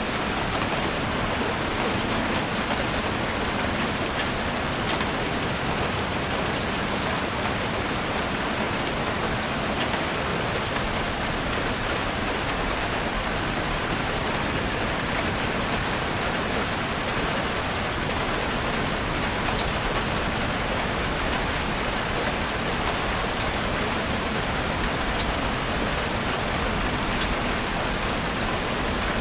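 Heavy rain beating steadily on a roof, a dense hiss with many small drop ticks, unchanging in strength.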